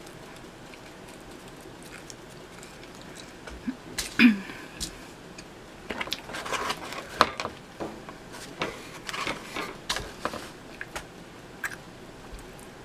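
Close-miked chewing of pizza: wet mouth clicks and smacks that start about four seconds in and come irregularly for several seconds.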